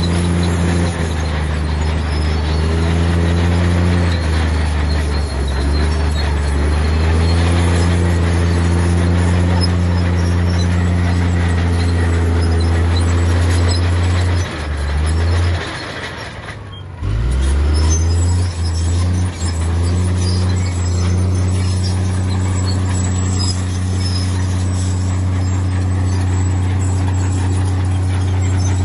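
Heavy diesel engine of earthmoving machinery running hard, its note rising and falling as it is worked. About halfway through the sound drops away for a moment, then cuts back in.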